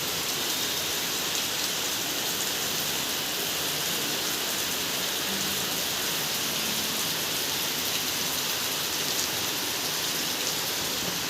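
Steady rain falling: an even hiss that does not change or let up.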